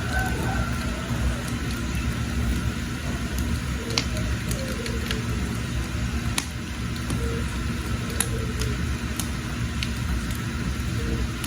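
Wood fire burning with a steady low rumble, broken by scattered sharp crackles and pops from the burning firewood. A few faint bird chirps come through.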